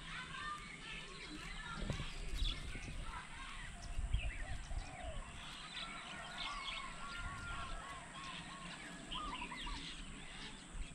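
Several birds calling and chirping, with a run of about five quick, evenly repeated whistled notes in the middle. A low rumble runs underneath and swells about two and four seconds in.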